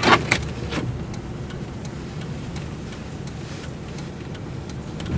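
Car cabin while driving through deep snow: a steady low engine and road rumble, with faint irregular ticking over it and a few sharp clicks in the first second.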